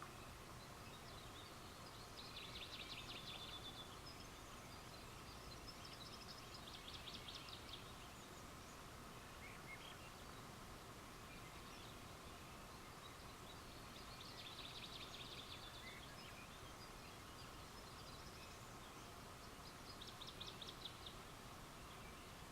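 Faint night ambience with a small animal's short, high, rapidly pulsed trill, repeated four times at intervals of several seconds.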